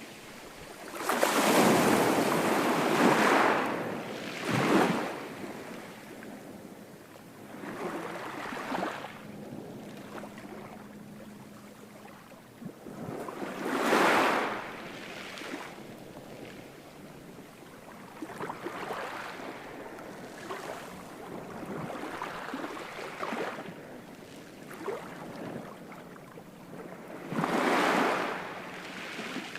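Ocean waves breaking on a shore: a big break about a second in, smaller breaks around the middle, and another strong one near the end, with the hiss of surf washing back between them.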